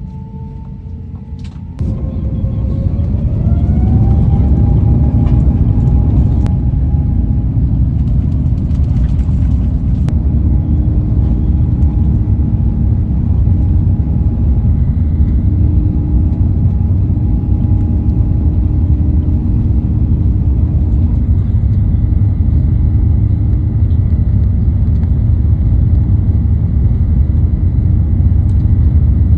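Airbus A350-900's Rolls-Royce Trent XWB jet engines at takeoff thrust: a loud, deep, steady roar that starts abruptly about two seconds in after a brief bit of music. A whine rises in pitch over the next few seconds as the engines spool up, then holds steady.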